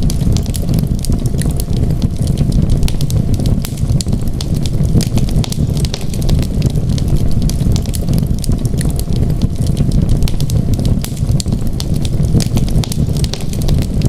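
Wood fire burning in a fireplace: a steady low rumble of flames with constant small, sharp crackles and pops throughout.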